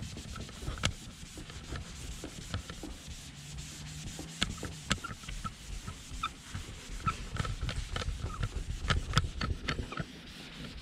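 Rag rubbing and wiping plastic car trim, a steady scrubbing with many short scratchy clicks, as the trim is cleaned with wax and oil remover.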